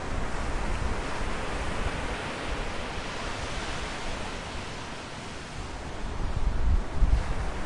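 A steady rushing noise of natural outdoor ambience, with no bird calls, swelling with low rumbling surges after about six seconds.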